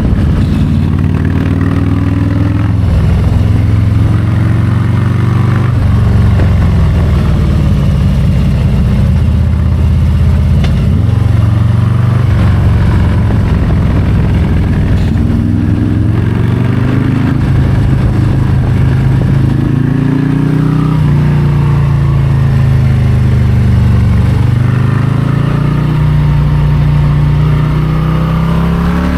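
Harley-Davidson Low Rider ST's Milwaukee-Eight 117 V-twin engine under way. The engine note keeps rising and falling as the throttle is opened and closed, with several sudden drops in pitch where the revs fall away.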